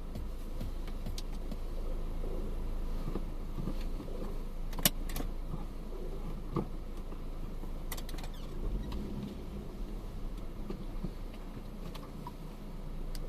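A car on the move: a steady low road-and-engine rumble, with a few sharp clicks, the loudest about five seconds in.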